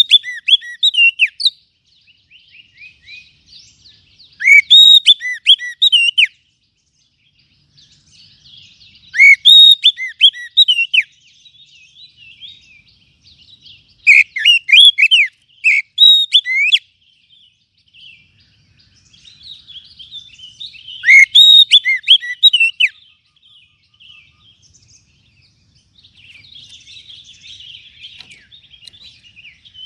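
Oriental magpie-robin (kacer) calling: loud bursts of sharp, sweeping whistled notes, each about two seconds long, repeated five times about every five seconds, with quieter twittering between them.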